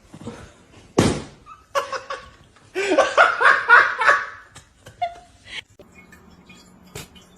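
A person laughing in fits, with a sharp thump about a second in.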